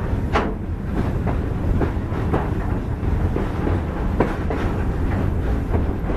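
Old sugar train rolling along the track: a steady low rumble with irregular clacks and knocks from the wheels and cars, the sharpest about half a second in and again about four seconds in.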